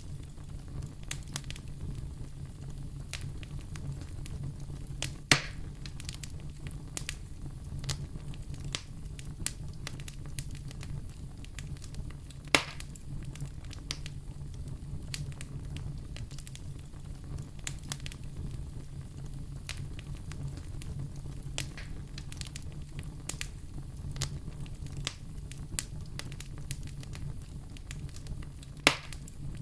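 Wood fire crackling in a fireplace: a steady low rumble of burning with frequent small crackles and three louder pops, about five seconds in, near the middle and near the end.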